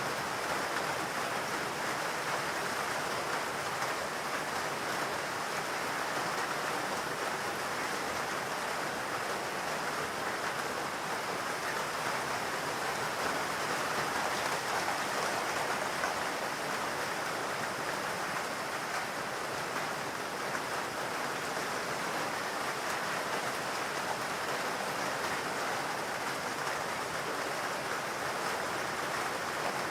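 Steady rain falling in a forest, an even hiss of drops with no distinct individual patters standing out.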